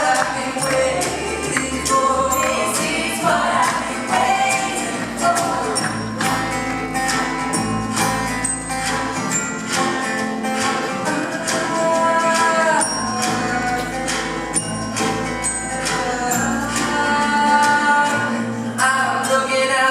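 Live band playing an instrumental passage of the song with a steady percussion beat, with wordless singing voices over it.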